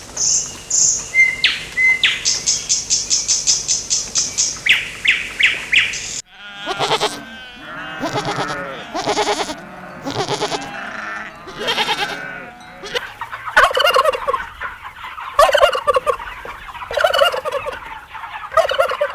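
Poultry calling: high, rapid chirping for about six seconds, then, after an abrupt cut, a run of lower, warbling calls repeating about once a second.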